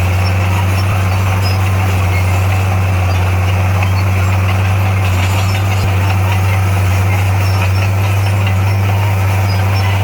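Bulldozer's diesel engine running steadily: a deep, even drone that holds one pitch with no revving.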